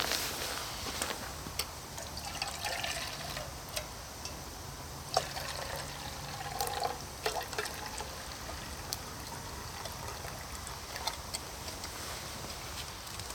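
Water being poured and trickling while a wood campfire crackles with scattered sharp pops.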